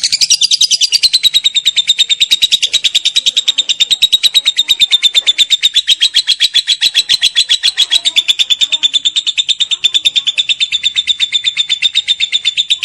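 Lovebird singing a long, unbroken 'ngekek' chatter: a rapid run of shrill, evenly spaced notes that keeps going without a pause.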